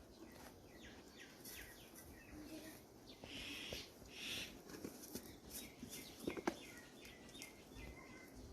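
Faint outdoor ambience with scattered short bird chirps and some rustling. Two sharp clicks come a little past the middle.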